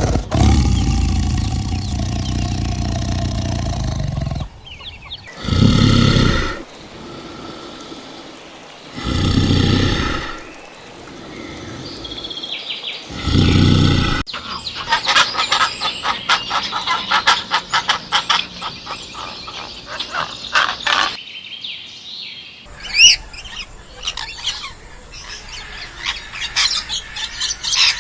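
A run of animal calls. A loud, low, sustained call opens it, followed by three separate pitched calls a few seconds apart. Then a dense chorus of birds chirping rapidly, with a sharp squawk near the end.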